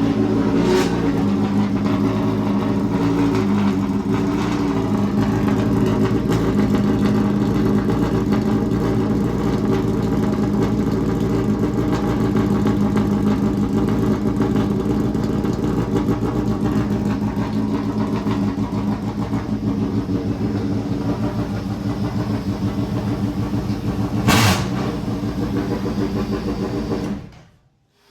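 Engine of a handmade F1 replica running steadily through its 4-into-2-into-1 exhaust, with one short sharp burst about 24 seconds in. The sound stops abruptly about a second before the end.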